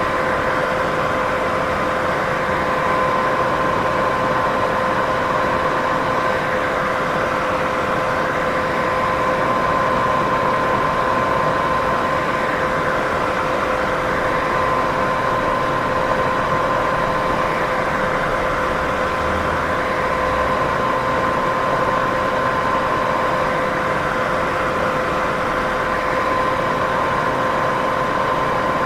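Steady white-noise sleep sound: an even, unchanging hiss strongest in the middle of the range, with two steady tones, one an octave above the other, humming through it.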